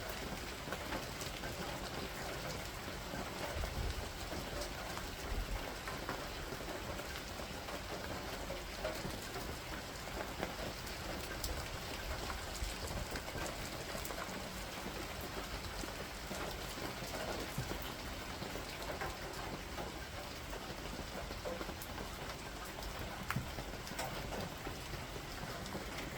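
Steady rain from a thunderstorm falling on surfaces, with many single drops striking sharply, and a faint low rumble a few seconds in.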